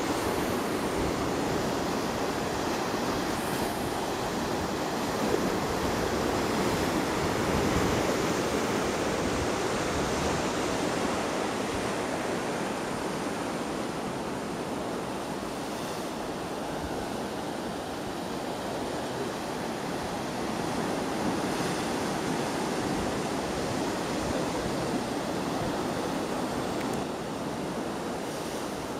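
Atlantic Ocean surf breaking: a steady wash of waves that swells and eases.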